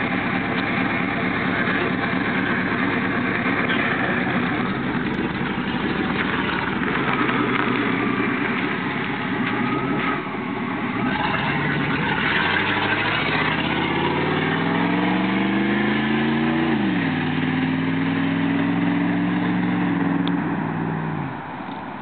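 1989 Chevrolet K1500's 350 V8 running with no muffler, through stock headers and a universal 3-inch catalytic converter. It idles loudly, is revved up steadily over about three seconds, drops back and holds at a higher speed for a few seconds, then settles back to idle near the end.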